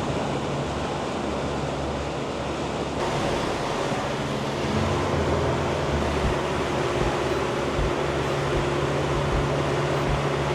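Steady hum of the Seawind 1370 catamaran's engines running under way, under a constant rush of wind and water.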